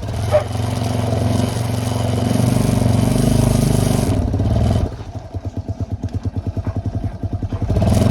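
ATV engine running steadily under throttle, easing off about five seconds in to a quieter, evenly pulsing putter, then picking up again near the end.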